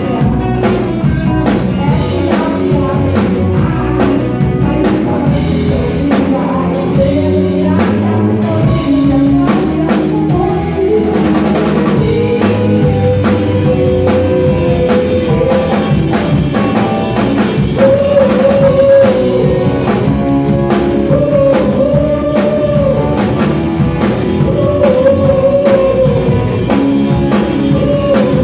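Rock band playing live, with drum kit, guitar and a voice singing long held notes.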